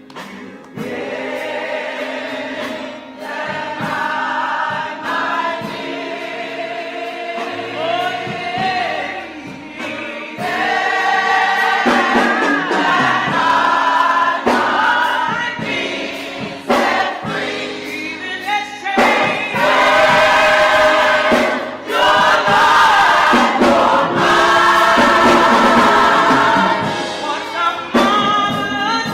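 Gospel choir singing a worship song with music, building in volume partway through.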